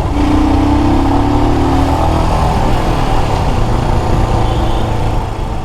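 Royal Enfield Himalayan single-cylinder motorcycle running on the road, with steady engine and wind rumble. A held two-note tone sounds for about two seconds near the start, and the whole sound fades out near the end.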